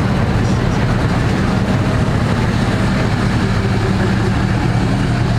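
Diesel pickup truck engine idling steadily, a deep even rumble with no revving.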